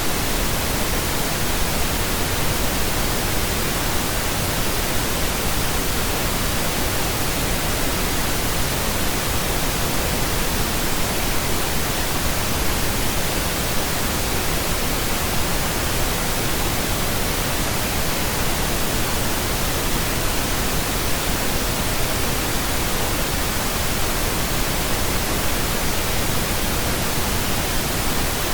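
Steady pink noise: an even, unchanging hiss with no tones or breaks.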